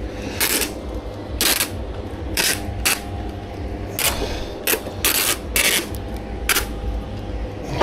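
Adhesive tape being pulled off the roll in short, rasping pulls, about nine of them at uneven intervals, as it is wrapped onto the trolley frame. A steady low hum runs underneath.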